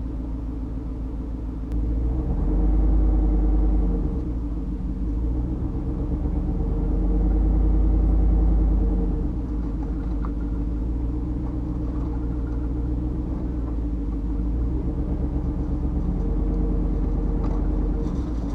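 Pickup truck driving with a low engine rumble. The engine note rises and grows louder about two seconds in and again around seven to nine seconds in, as the truck speeds up, then settles back to a steady run.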